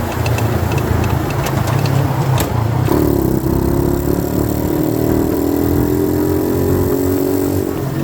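A 90cc dirt bike's small engine running under way, with wind and road hiss over it. About three seconds in the hiss drops away and the engine settles into a steadier, even hum.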